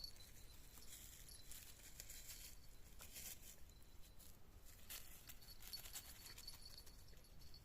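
Near silence with faint, irregular rustling coming and going, with no clear strokes or voices.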